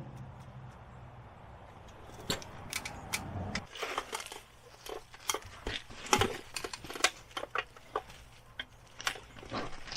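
Irregular clicks and clinks of tools and metal parts being handled during brake reassembly, joined early on by a low steady hum that stops about three and a half seconds in.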